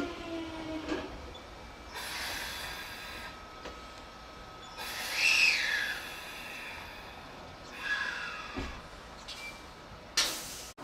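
JR 383 series limited express electric train running past. Its falling motor whine dies away about a second in, and brief rushes of noise follow, one with a short rising-and-falling squeal.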